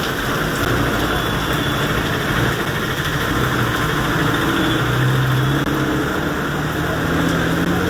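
A motor vehicle's engine running amid a steady wash of heavy rain and water noise; the engine's tone steps up slightly near the end.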